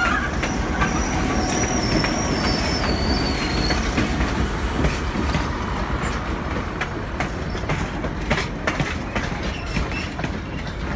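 Train rolling past on steel rails: high thin wheel squeals in the first few seconds, then a run of sharp clicks as the wheels cross rail joints, over a steady rumble.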